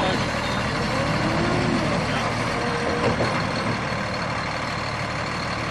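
Farm tractor engine running steadily while working to free a tractor stuck in a muddy field.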